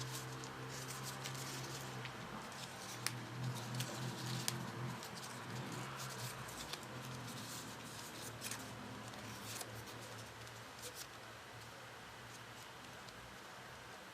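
Folded paper modules being handled: scattered light rustles and clicks, over a low steady hum that fades in the second half.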